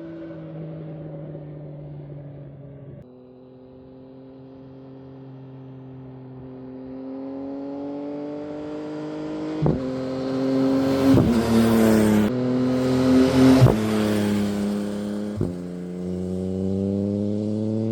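Yamaha MT-09's inline three-cylinder engine running through a Spark exhaust. The engine note climbs slowly and grows louder toward the middle, with sudden steps in pitch and a few sharp cracks, then drops in pitch near the end.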